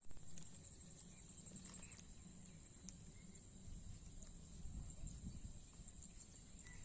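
Faint rural field ambience: a steady high-pitched insect drone with a low rumble of wind or handling and a few faint clicks.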